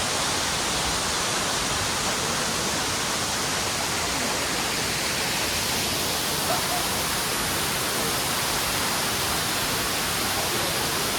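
Waterfall roaring steadily: a dense, unbroken rush of falling water.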